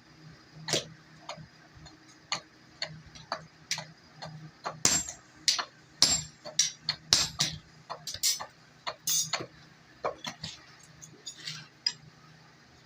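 Hammer blows on metal at the anvil while forging an axe head: an irregular run of sharp metallic strikes, a strike or two a second, coming thicker in the middle.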